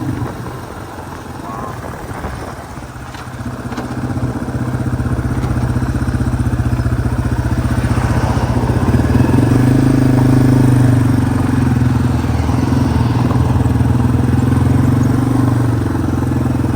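Yamaha TW200's single-cylinder four-stroke engine running under way. It gets louder about three seconds in as the bike picks up speed, then holds a steady note that rises a little midway.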